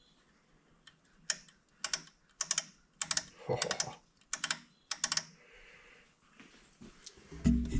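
A series of light, sharp clicks, roughly two a second for about four seconds, from a measuring tool being worked against a freshly machined part. A low hum with some knocks starts near the end.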